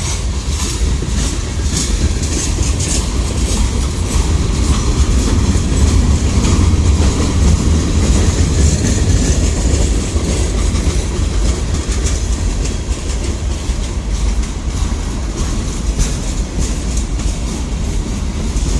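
Freight train cars rolling past at close range, a steady heavy rumble with the wheels clicking repeatedly over the rail joints.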